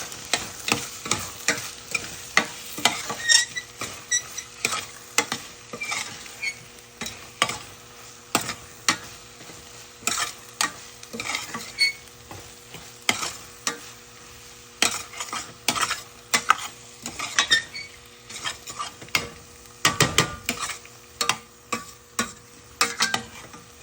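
A cooking utensil stirring and knocking repeatedly against a frying pan of salmon and bacon, with an irregular run of sharp taps and scrapes over a steady sizzle of frying oil.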